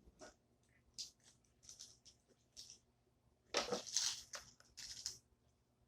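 Pet cockatiels making short scratchy sounds: a scattering of soft high rasps and clicks, with a louder, fuller rasping burst about three and a half seconds in and another shortly after.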